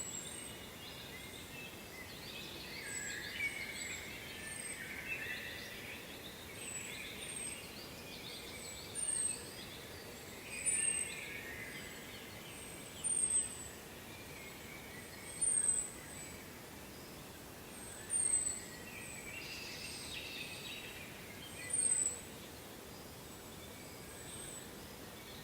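Wild songbirds singing: varied chirping, a thin high falling note repeated about once a second, and a louder short call recurring every two to three seconds, over a steady background rush.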